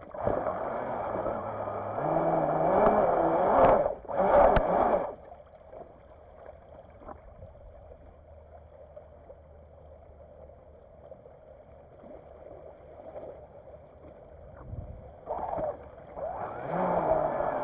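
Radio-control jet boat's motor and water jet, heard from onboard: it runs hard under throttle with a rush of water and a pitch that rises for about five seconds, drops back to a faint low hum for about ten seconds, then throttles up again near the end.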